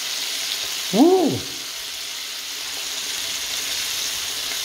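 Chicken wings sizzling steadily as they fry in a nonstick pan. About a second in, a person's voice makes a short sound that rises and falls in pitch.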